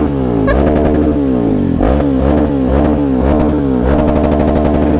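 Motorcycle engine being revved over and over in a string of quick throttle blips, the pitch jumping up and falling back each time.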